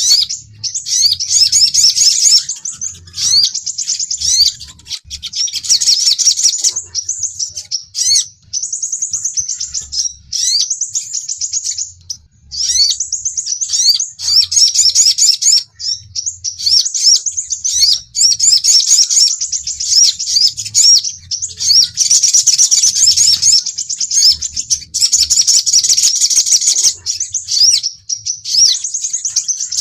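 Sunbird song (sogon and sepah raja, the crimson sunbird) played as a bird-catching lure track: rapid, high, thin chirping trills in phrases of one to two seconds, with brief gaps between them.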